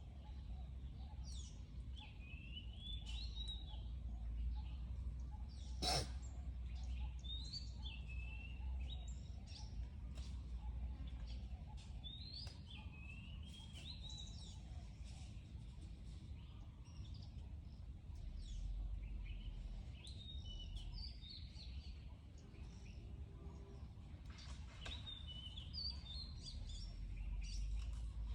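Birds chirping in short, quick phrases that recur every few seconds over a steady low outdoor rumble, with one sharp click about six seconds in.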